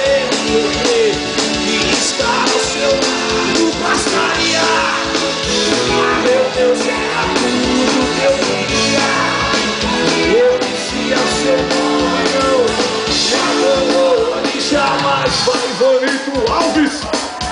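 Live band playing a rock song, a sung melody over the instruments.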